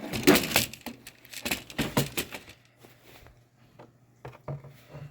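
Clatter and clicks of a container of engine flush being handled at the oil filler as it is opened and readied to pour into the engine: a busy run of knocks and rattles for about two and a half seconds, then a few scattered clicks. A faint steady hum runs underneath.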